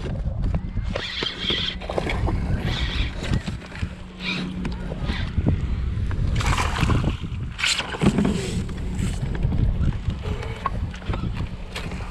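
Wind buffeting the microphone aboard a kayak on the water, with a steady low rumble and scattered knocks, clicks and splashy washes.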